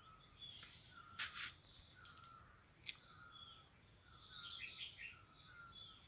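Faint outdoor birdsong: one bird repeats a short falling whistle over and over while higher chirps come and go above it. Two sharp clicks stand out in the first half.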